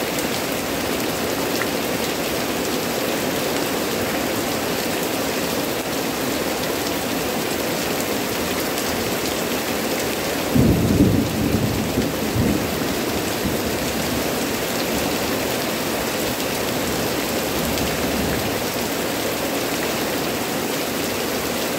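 Heavy rain falling steadily on leafy plants, an even hiss. About halfway through, a short low rumble of thunder lasting about two seconds.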